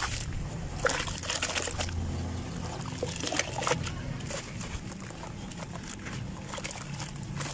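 Sand crumbling and trickling down in a steady gritty pour, broken by many small crackles and a few sharper clicks.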